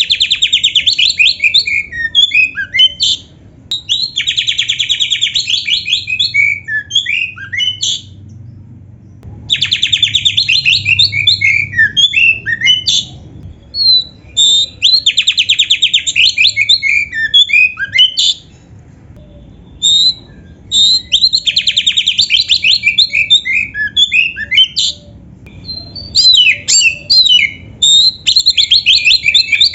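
An Oriental magpie-robin (kacer) singing in loud phrases of a few seconds, each opening with a rapid rolling trill and running on into quick varied whistles and chips, with short pauses between phrases. Its song is laced with mimicked canary song.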